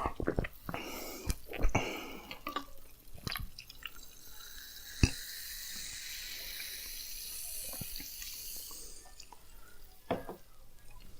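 Water pouring steadily for about five seconds, with scattered clicks of eating and handling before it and one sharp click partway through.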